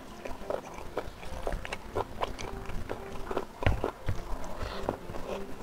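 Close-miked mouth sounds of eating spicy smoked beef and rice by hand: wet chewing, smacking and clicks, several a second at an irregular pace, with one heavier thump about three and a half seconds in.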